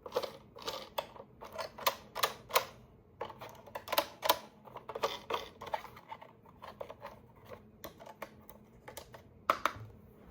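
Hands handling a toy and its packaging: an irregular run of sharp clicks and taps, several a second, thinning out about halfway through.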